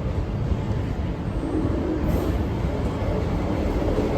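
Class 158 Sprinter diesel multiple unit running through the level crossing: a steady low rumble of diesel engine and wheels on rail, growing louder toward the end.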